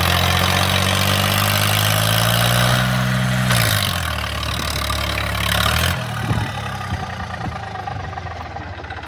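Eicher 333 tractor's diesel engine running, its note rising slowly and then dropping in pitch about three and a half seconds in; the engine sound stops about six seconds in, leaving scattered clicks and knocks.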